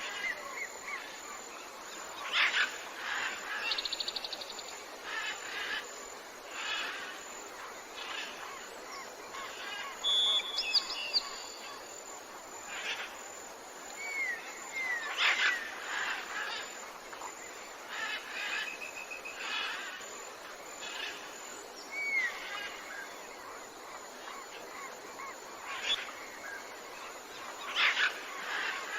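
Tropical jungle ambience with many birds calling: scattered chirps, short rising whistles and rapid trills over a steady background hiss.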